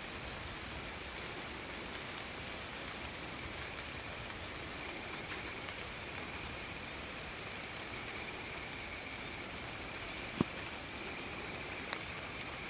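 Steady rain falling with a continuous high cricket trill over it. Two sharp ticks near the end, about a second and a half apart, the first louder.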